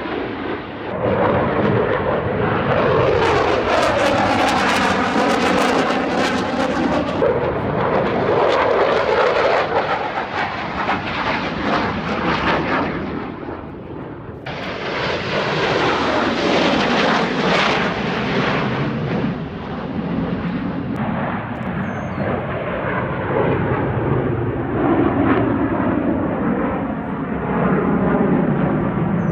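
Aircraft engines flying over at an air show: a loud, continuous roar that swells and fades as the planes pass, with a sweeping, phasing quality in the first few seconds. The roar dips briefly about halfway and then changes abruptly.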